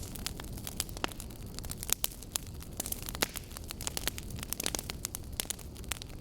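Wood fire burning, with the logs crackling and snapping in sharp, irregular pops over a steady low rumble of the flames.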